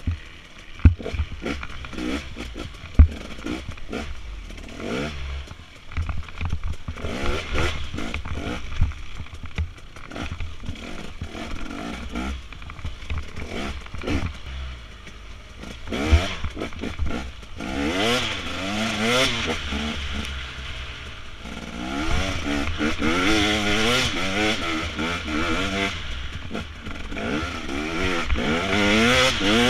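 Dirt bike engine revving up and down, its pitch rising and falling again and again, with sharp knocks now and then. The loudest knocks come about one and three seconds in.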